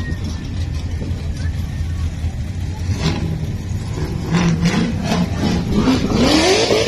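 Car engine revving over a steady low rumble, its pitch climbing several times in the second half and peaking near the end with a rush of noise.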